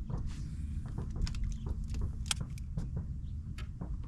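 An electric trolling motor humming with a steady whine that fades out about two and a half seconds in, over wind rumbling on the microphone, with scattered light clicks and knocks.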